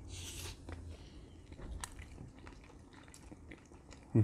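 Quiet mouth sounds of chewing soft chicken-and-rice, picked up close on lapel microphones, with a short breathy hiss at the start and a few small wet clicks.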